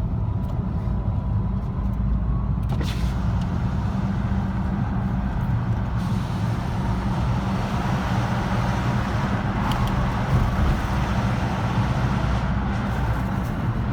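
Car driving along a road, heard from inside the cabin: a steady low rumble of engine and road noise, with a hiss of tyre noise that grows from about three seconds in.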